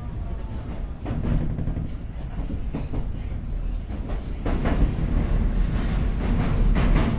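Commuter train on the JR Osaka Loop Line heard from inside the car as it pulls out of a station: a steady low rumble from wheels on rail, with several irregular wheel clacks as it crosses the points (turnout) onto the loop line.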